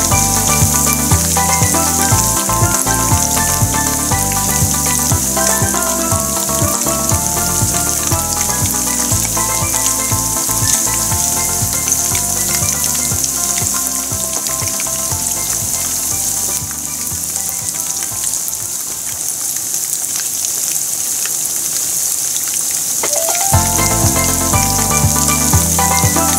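Chicken karaage deep-frying in a pan of hot oil, a steady bubbling sizzle. Background music plays over it, fading out around the middle and coming back near the end.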